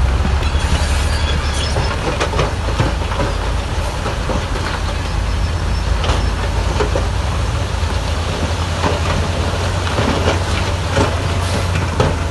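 Bulldozer's diesel engine running with a steady low rumble, its steel tracks clanking and squeaking in many short knocks as it works.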